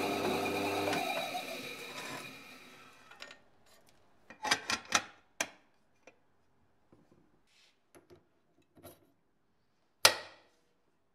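Paper shredder's electric motor spinning down to a stop, its pitch falling and the sound fading over about three seconds. Then a quick run of sharp clicks and knocks, a few faint ticks, and one loud knock near the end.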